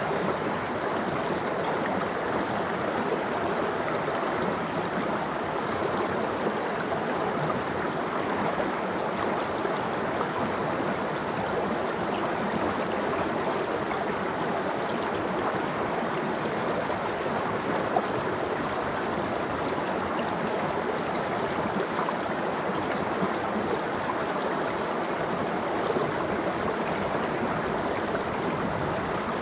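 Mountain stream of cold water flowing and gurgling over rocks, a steady, even rush.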